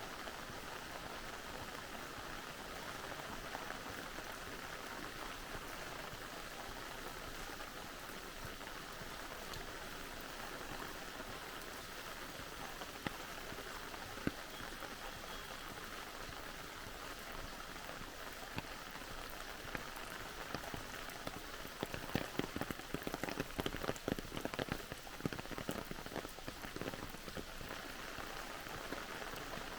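Steady rain falling, an even hiss of drops, with a run of louder, close drops striking about two-thirds of the way through.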